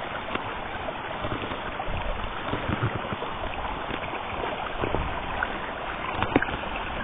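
Mountain stream flowing downhill: a steady rush of running water.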